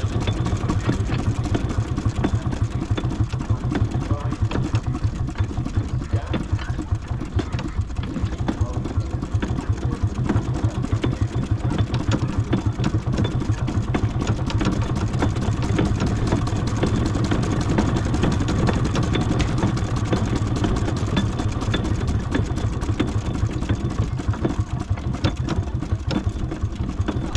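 Miniature steam traction engine running steadily in bottom gear, with a rapid, even beat.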